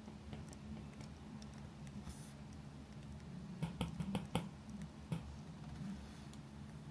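Campfire crackling softly, with a quick cluster of sharp pops about halfway through and another pop a second later.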